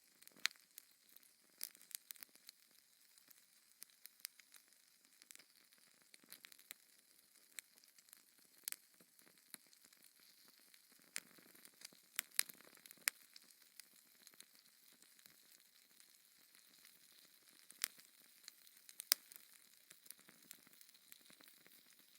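Wood fire burning in a fireplace: a faint steady hiss with irregular sharp crackles and pops, a few louder snaps scattered through.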